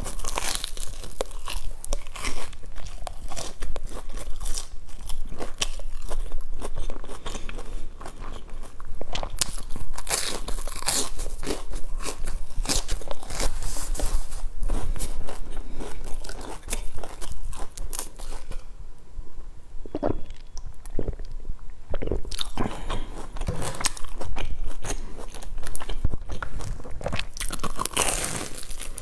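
Close-miked biting and chewing of a crusty, crumb-topped bread bun, a dense run of crunching and crackling with a quieter pause about two-thirds through.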